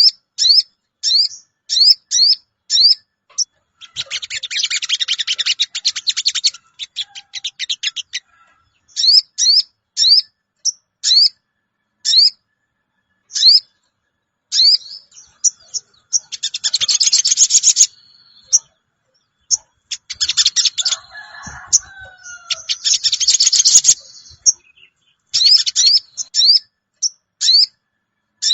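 Sogon bird lure recording: repeated short, high 'cuwit' calls about once or twice a second, broken by several bursts of rapid chattering.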